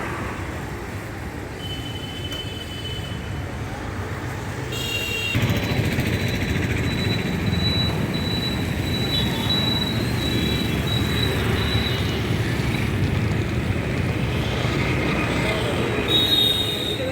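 A train running on the rails, with a low steady noise that gets louder about five seconds in and a thin, high, steady squeal from the wheels on the track.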